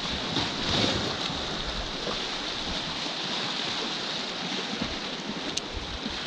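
Sea surf washing steadily against a rocky shore, with gusts of wind buffeting the microphone.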